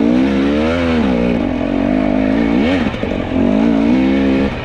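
Two-stroke enduro dirt bike engine revving up and down as the rider works the throttle on a hard, loose climb, with several rises and falls in pitch and a drop in revs near the end.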